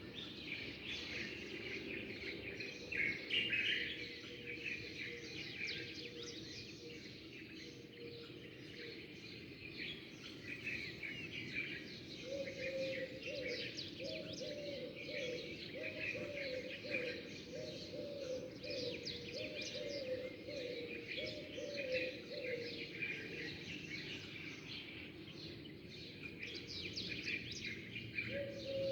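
A flock of sparrows chirping and twittering continuously in quick, overlapping short notes. Through the middle and again near the end, a lower call repeats about once a second beneath the chirping.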